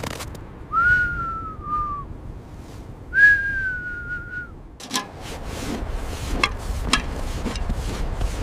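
Two long whistled notes, the first gliding slightly down and the second held nearly level. From about five seconds in they give way to sharp clicks and rustling, scraping noise.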